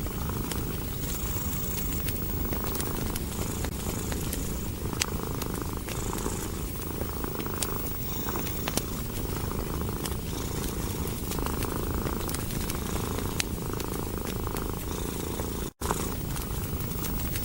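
Domestic cat purring continuously in slow pulses, with the sharp pops and crackles of a wood fire in a fireplace. The sound cuts out for an instant near the end.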